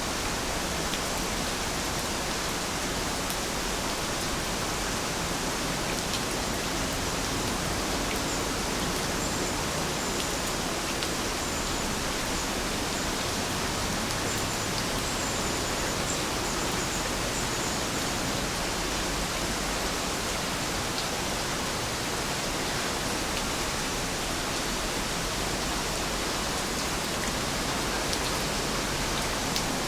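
Heavy rain falling steadily: an even, unbroken hiss of water with a few sharper drop ticks.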